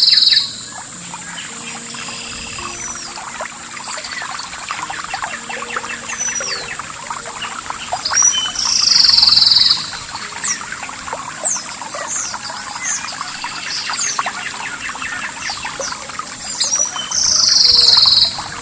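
Birds calling in a forest soundscape: many short, high, falling chirps, and a loud harsh call about a second long that comes three times, roughly every eight to nine seconds. A steady high-pitched whine of insects runs underneath.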